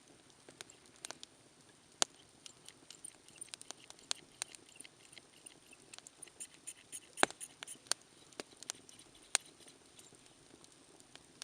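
Wood campfire crackling: irregular sharp pops and snaps over a low steady background, coming thicker and louder around the middle, with one especially loud pop about seven seconds in.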